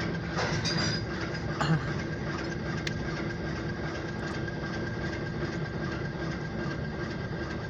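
Short freight train of ethanol tank cars rolling past, a steady rumble with a thin steady whine over it and a few faint clicks.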